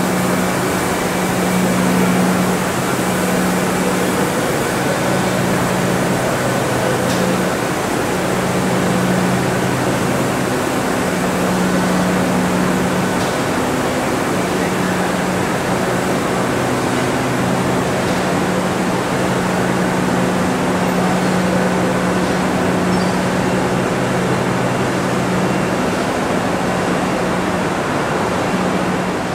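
Train running at speed: a steady rolling rumble of wheels on rail, with a low steady hum that drops out briefly every few seconds.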